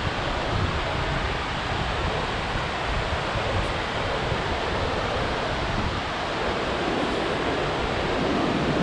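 Steady rush of a waterfall's falling water, with wind buffeting the microphone in uneven low rumbles. The rush grows a little fuller about eight seconds in.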